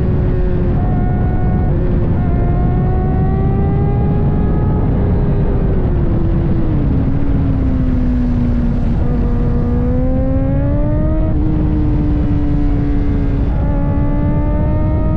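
Kawasaki ZX-4RR's inline-four engine running while ridden. Its pitch climbs and falls with engine speed, with a few brief breaks in the note and one sudden step up near the end, over heavy wind rumble.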